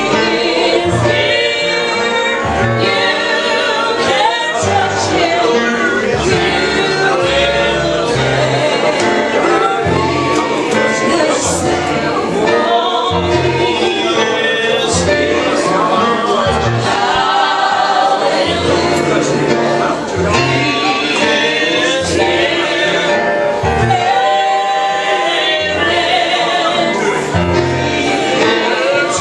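A gospel song sung by a group of voices, with instrumental backing and a steady pulse of low notes under it.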